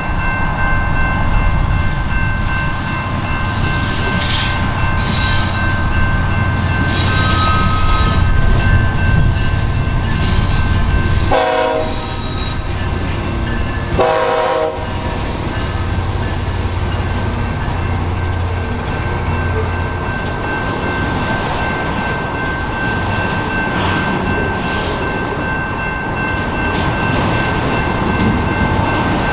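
BNSF diesel freight locomotives running past with a heavy low rumble, then a string of autorack cars rolling by over the rails. About halfway through, two brief pitched blasts sound a couple of seconds apart, and steady high tones ring on throughout.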